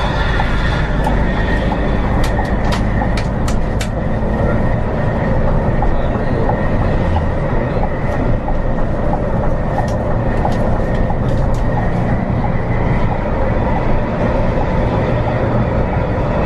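Scania bus running on the road, heard from inside the cabin: a steady low engine and road drone. Two clusters of sharp clicks, a couple of seconds in and again about ten seconds in, are likely cabin rattles.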